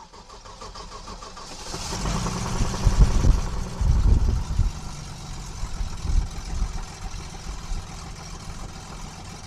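A KR2 light airplane's engine being cranked by its electric starter, catching about two seconds in. It runs with loud, uneven surges for a couple of seconds, then settles into a steadier idle.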